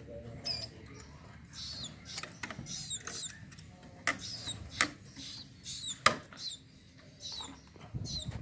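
Small cage birds giving short, high chirps over and over, with a few sharp clicks and knocks, the loudest about six seconds in.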